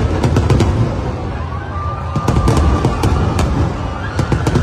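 Aerial fireworks shells bursting in quick succession: deep rumbling booms overlaid with many sharp crackles and pops.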